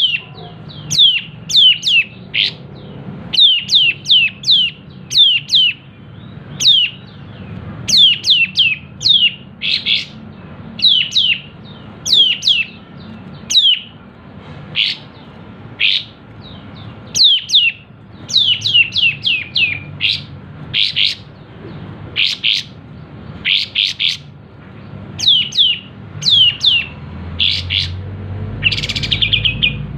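Kapas tembak bird singing in fast runs of short, sharp, downward-sliding notes, three to six at a time with brief pauses between runs, mixed with a few buzzier notes: the energetic 'tembak' (shooting) song style.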